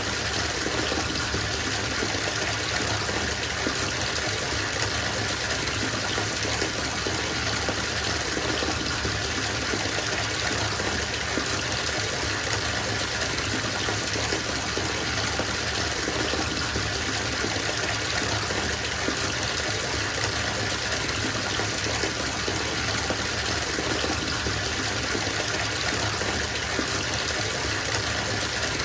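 Bathtub filling from the tap: a steady gush of water pouring into the tub, an even rushing hiss with no breaks.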